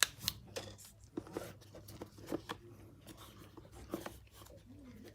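Irregular light clicks, taps and scrapes of small hand tools against a smartphone being worked on, over a faint steady hum.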